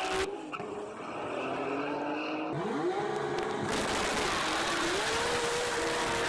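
Modified car engines running hard under acceleration, with a sharp rise in engine pitch about two and a half seconds in, then a steady high engine note. The sound changes abruptly near the start and again around that rev.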